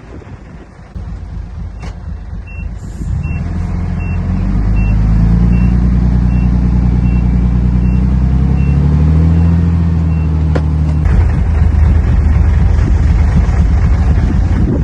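Heavy diesel machine reversing under load, its backup alarm beeping about once every three-quarters of a second while the engine speeds up and holds. Shortly after the beeping stops, the steady engine sound cuts off abruptly into a rougher, noisier rumble.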